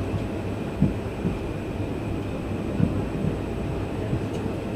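Passenger coach of an Indian express train running, heard from inside: a steady low rumble with a few irregular low thumps from the running gear.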